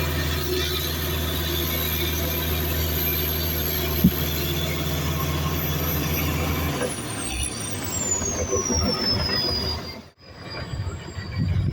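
Heavy earthmoving machinery at work: a diesel engine running steadily. About two-thirds of the way in the engine note changes and a high squeal slides down in pitch. Near the end the sound briefly drops out.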